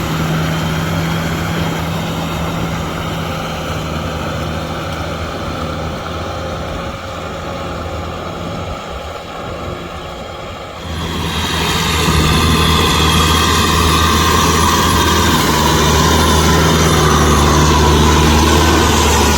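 Kubota M6040SU tractor's diesel engine running steadily, pulling a rotavator through a muddy field. About eleven seconds in, the sound abruptly grows louder and brighter and stays that way.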